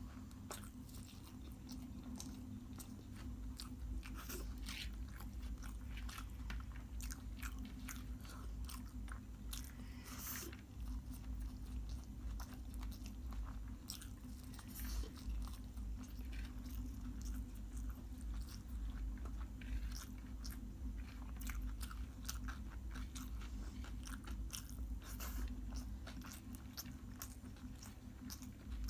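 Close-miked chewing and biting of food eaten by hand, with many short wet mouth clicks and crunches throughout.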